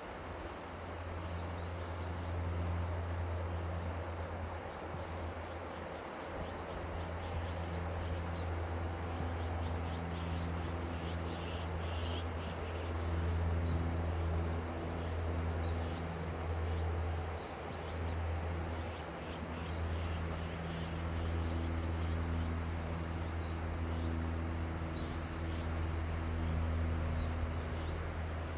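Steady rush of river water under a continuous low drone, with faint insects chirping high above.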